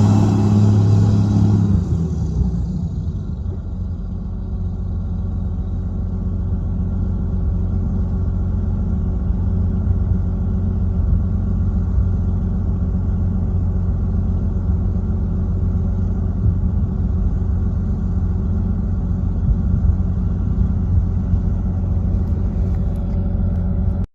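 John Deere 9400 tractor's diesel engine running. It is loud for the first couple of seconds, then eases to a lower, steady rumble, and cuts off abruptly at the end.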